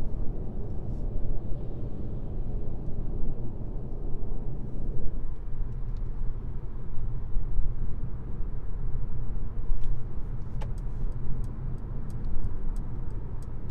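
Steady low rumble of a car driving on a highway, its tyre and road noise. From a little past the middle, a run of sharp ticks comes about three times a second.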